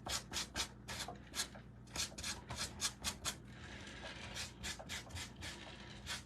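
Painted muslin fabric pulled and rubbed in quick repeated scraping strokes, about three or four a second, with a longer continuous rasp about halfway through, distressing the fabric so it looks tattered and worn.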